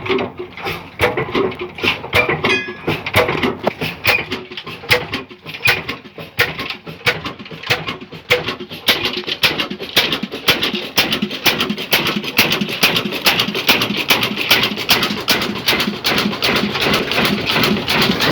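An engine starting: separate knocking firing strokes, a few a second at first, come faster and faster until they merge into a steady running clatter near the end.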